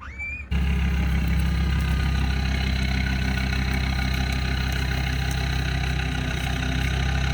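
Off-road 4x4's engine running steadily and close, cutting in abruptly about half a second in.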